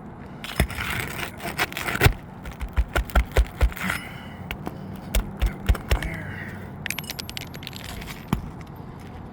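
Metal hand tools scraping and knocking against old asphalt 3-tab shingles as nails are worked loose to pull a shingle: sharp knocks, some in quick runs of about four a second, with scraping between, then lighter ticks near the end.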